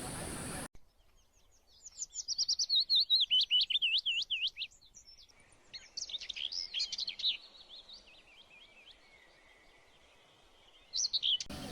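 Songbird singing: a fast run of repeated whistled notes lasting about three seconds, then a second, busier stretch of chirps, and a short burst of notes near the end.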